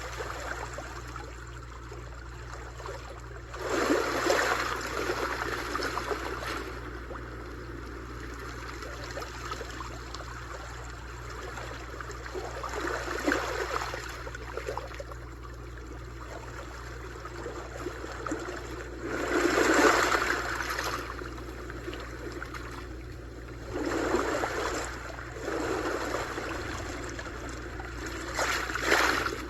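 Sea waves washing onto a shore: a steady wash of water with about six louder surges that swell and fall away, the biggest around four seconds in, just before twenty seconds and near the end, over a steady low hum.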